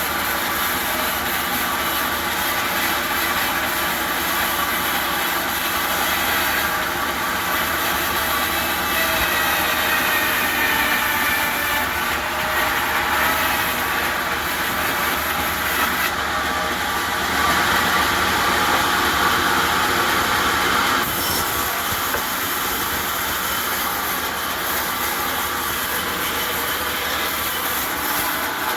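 Sawmill saw running and cutting a log into boards: a steady machine noise with a high whine that grows louder for a few seconds past the middle.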